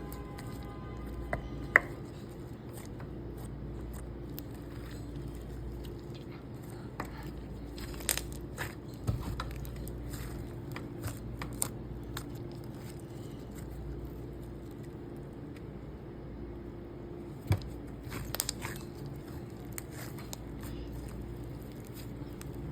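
Stretchy slime being pressed and pulled, giving scattered sharp pops and clicks, clustered about a third of the way in and again past the three-quarter mark, over a steady low background hum.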